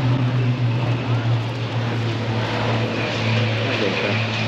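Steady, even engine drone, with a faint higher whine over it.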